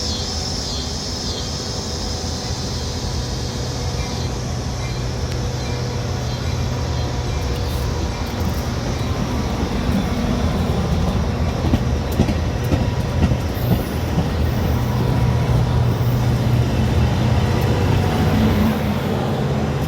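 Metra commuter train running along the track: a steady rumble with a low hum and a few sharp wheel clicks, growing a little louder.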